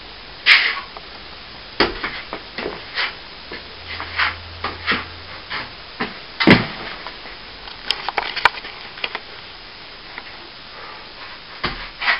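A series of irregular sharp knocks and scrapes, with the loudest knocks about half a second in and again around six and a half seconds.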